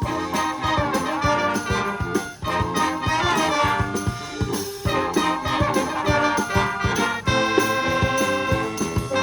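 Wind band playing, brass to the fore over a steady percussion beat, with brief breaks between phrases.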